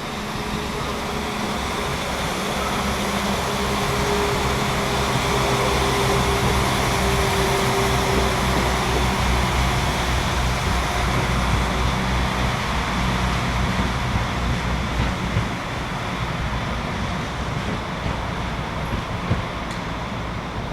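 Train pulling out of the station: running noise builds over several seconds, holds, then slowly eases, with a faint whine near the middle.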